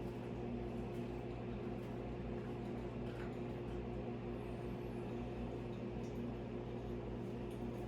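A steady low electrical or mechanical hum, like a running appliance or motor, unchanging throughout.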